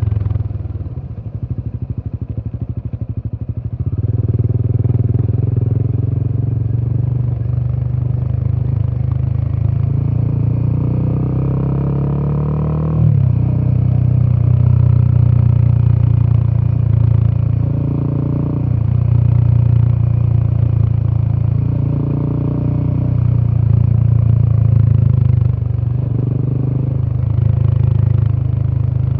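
Royal Enfield Himalayan 450's single-cylinder 450cc Sherpa engine heard through its exhaust while riding, with a deep, bassy note. It runs softer for the first few seconds, then the revs climb steadily and drop sharply about thirteen seconds in, followed by repeated smaller rises and falls in throttle.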